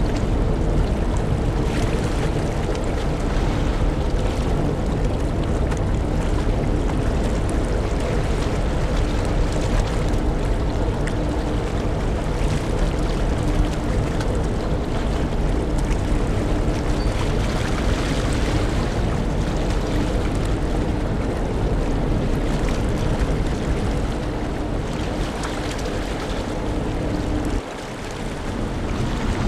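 Large car ferry's engines and machinery running with a steady low drone and hum, mixed with wind and the rush of water. Near the end the low rumble drops away suddenly and the overall sound becomes quieter.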